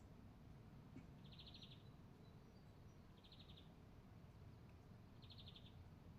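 A high, rapid pulsed trill from a calling animal, each trill about half a second long, repeated three times about two seconds apart, over a faint low outdoor rumble.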